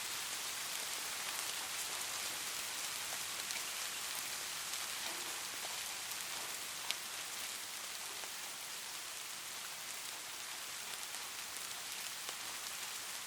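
Light rain falling steadily, an even hiss with scattered individual drops ticking, one a little sharper about seven seconds in.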